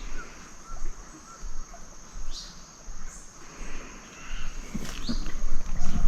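Insects keeping up a steady high drone, with a few short, downward-sliding bird calls scattered through it and some low handling rumble near the end.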